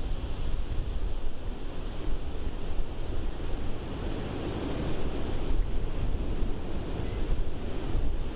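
Wind buffeting the microphone: a heavy, fluttering low rumble under a steady rushing hiss, with no distinct events.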